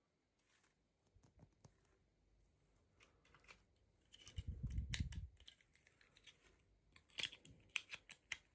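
Faint scattered clicks and scratches of small plastic toy packaging being handled and opened, with a low thump about four seconds in and a quick run of clicks near the end.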